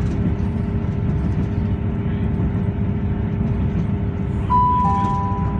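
Steady low rumble of a diesel passenger train running, heard from inside the carriage. About four and a half seconds in, the onboard PA sounds a two-note falling chime, the alert that comes before an automated station announcement.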